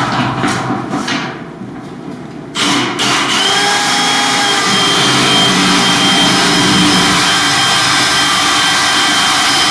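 Power drill boring a hole through a gypsum board. It runs briefly early, dips, then runs steadily from about two and a half seconds in.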